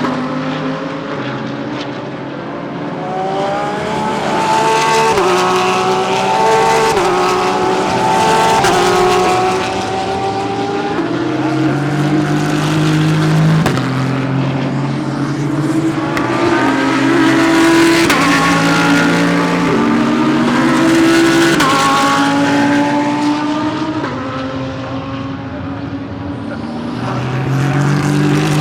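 GT3 race cars accelerating past, several engines overlapping, each rising in pitch and dropping back at every upshift; the sound swells and fades as groups of cars go by.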